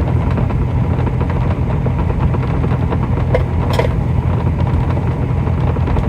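Semi-truck diesel engine idling steadily, a low even hum heard inside the cab. Two light clicks come about three and a half seconds in.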